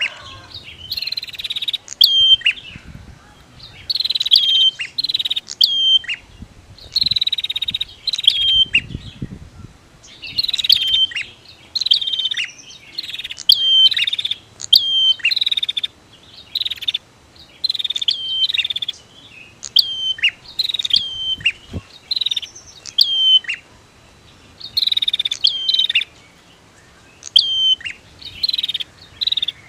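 Prinias (prenjak), female and male, calling back and forth in quick repeated phrases. Each phrase is a high buzzy chatter followed by sharp, falling chip notes, coming every second or two.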